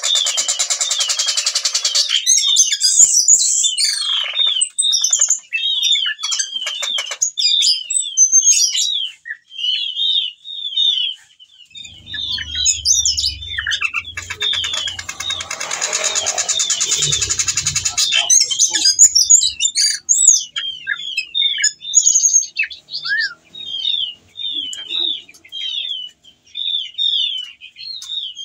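Ciung batu, a whistling thrush, singing in full voice: a long run of short, quickly repeated chirping notes, broken by harsh buzzy rattles at the start and again about halfway, as the bird runs through its song repertoire. A few low thumps sound midway.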